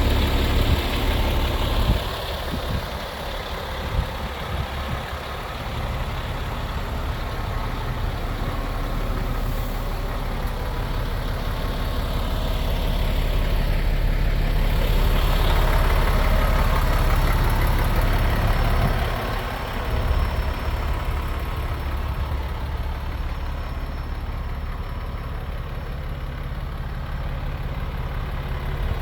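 MAN TGX 28.580 truck's 12.4-litre straight-six diesel engine idling steadily, growing louder in the middle and dropping back about twenty seconds in. A few short knocks come in the first few seconds.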